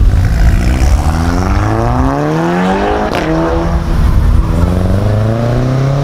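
Modified cars pulling away one after another, each engine revving up with its pitch climbing steeply. A brief sharp crack comes about three seconds in. In the second half a Subaru Impreza's flat-four accelerates off, rising in pitch again.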